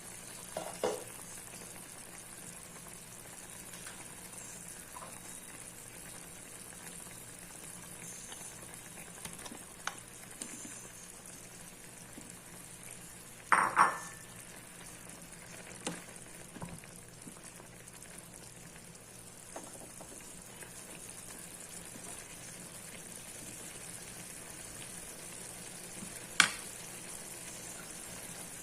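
Chicken frying in a pan with a steady sizzle, broken by a few sharp knocks of a utensil against the pan. The loudest is a double clatter about 14 seconds in, and another comes near the end.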